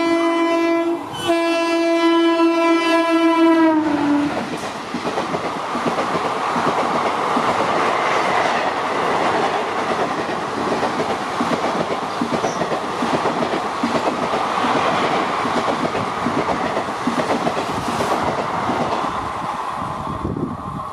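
Indian Railways express train with an electric locomotive passing through a station at speed. The horn sounds twice, the second blast longer and dropping in pitch as the locomotive goes by, then the coaches rush past with wheel clatter that thins near the end.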